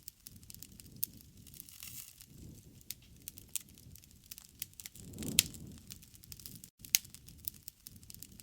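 Wood campfire crackling, with irregular sharp pops over a low rumble of burning that swells briefly about five seconds in.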